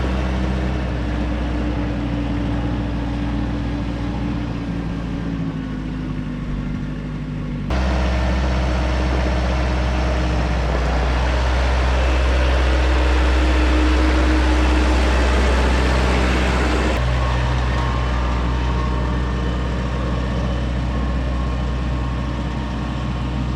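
Tractor engine running steadily, with a deep hum, in three clips that switch abruptly about 8 and 17 seconds in.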